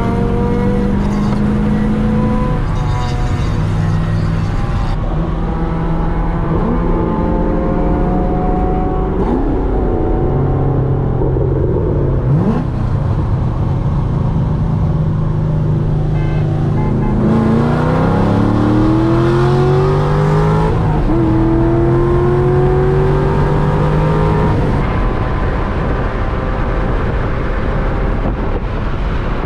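C6 Corvette's LS2 V8 running hard on a run: the engine note holds, steps between gears and climbs in pitch partway through, over a steady low rumble.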